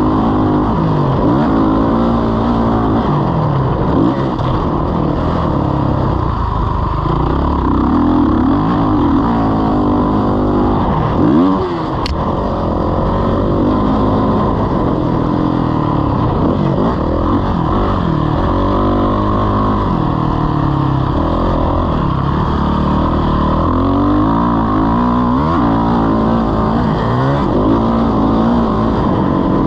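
Motocross bike engine revving up and down through the throttle without a break. There is a short drop and climb in revs about eleven seconds in, and a sharp click just after it.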